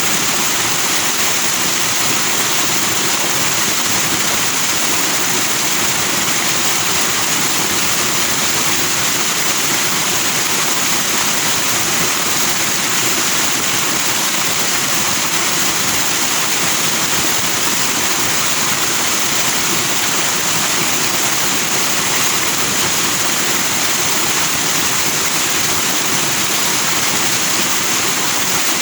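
Forest stream rushing over rocks in white foam, a steady, even hiss of water.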